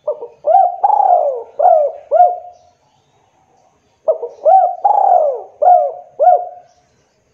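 Spotted dove (tekukur) singing its cooing song twice. Each phrase is a run of five or six short rising-and-falling coos, and the second phrase starts about four seconds in.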